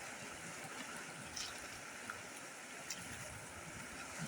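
Steady rain falling, with a few louder drops ticking.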